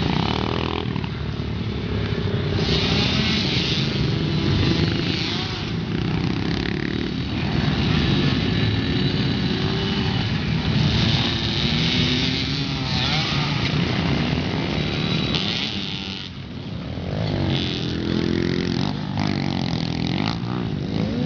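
Pit bike engine revving up and down repeatedly while riding a motocross track, with a brief drop in level about sixteen seconds in.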